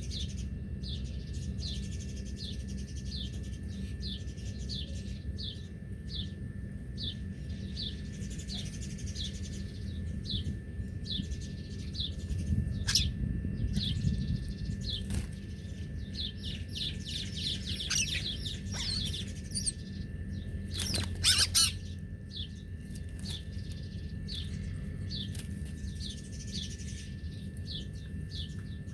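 Small bird chirping, repeating a short high falling chirp about twice a second, with a quicker flurry of overlapping chirps partway through. A few sharp clicks stand out near the middle and about two-thirds of the way in, over a steady low background rumble.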